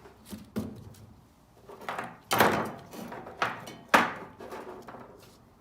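Sheet-metal blower assembly knocking and clattering as it is handled and set back into the heat pump air handler cabinet: a string of knocks, the loudest about two and a half and four seconds in.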